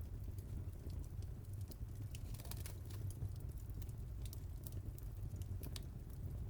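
Wood fire burning in a fireplace: a steady low rumble of the flames with irregular sharp crackles and pops, a few clustered about two and a half seconds in and near the end.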